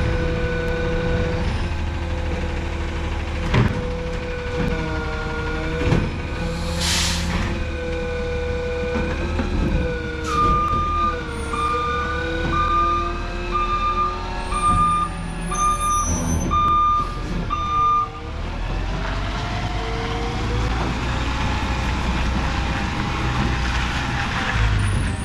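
Garbage truck's diesel engine running, its pitch rising and falling. About seven seconds in there is a short hiss of air. In the middle a backup alarm beeps about once a second, nine times.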